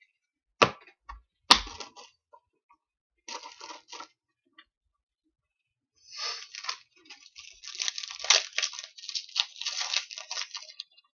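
Trading cards and their pack wrapper being handled: two sharp taps of cards set down, then from about six seconds in a long stretch of crinkling and tearing of the foil pack wrapper as it is opened.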